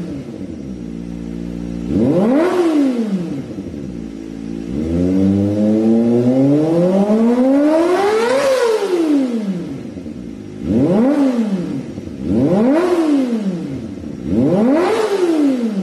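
Kawasaki Ninja ZX250R engine through an aftermarket exhaust, idling and being free-revved: a quick blip, then a long, slower rev that climbs and falls back to idle, then three more quick blips near the end.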